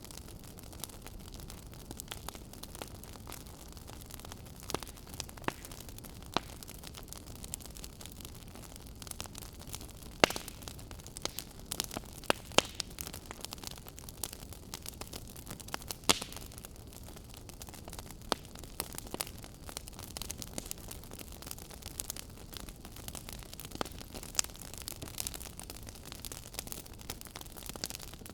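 Wood fire crackling in a fireplace: a steady low hiss with irregular sharp pops and snaps, a few much louder than the rest around a third of the way through and just past halfway.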